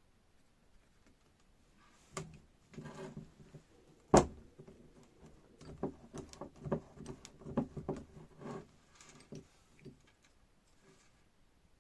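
Hydraulic jack metal parts knocking and clinking as they are handled and fitted during reassembly. An irregular string of sharp knocks starts about two seconds in, the sharpest a little after four seconds, and dies away about ten seconds in.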